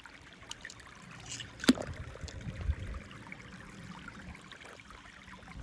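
Faint handling noise from plastic toys and packaging: light rustling and scattered small clicks, with one sharper click a little under two seconds in.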